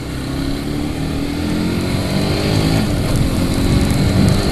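Single-cylinder engine of a Honda CBR150R motorcycle accelerating: its pitch climbs, drops once near the middle as it shifts up, then climbs again, growing louder, with wind noise on the microphone.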